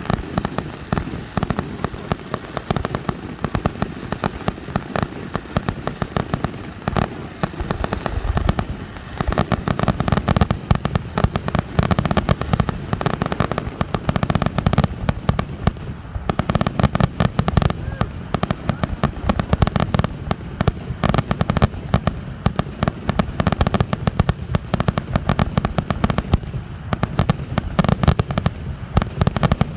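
Fireworks grand finale: a dense, continuous barrage of rapid bangs, growing louder and denser about nine seconds in.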